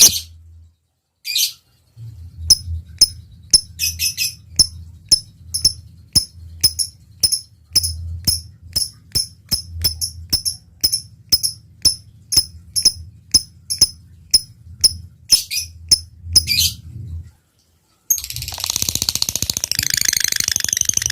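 Lovebird ticking ('ngetik'): a long run of sharp, short high chirps about two a second, over a low hum. After a brief pause near the end it breaks into a dense, continuous rapid chatter, the long 'ngekek' song of a lovebird in full song.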